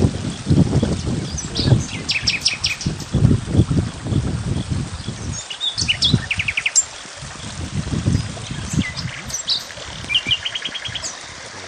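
Small birds chirping and calling, with short, quick trills repeated here and there.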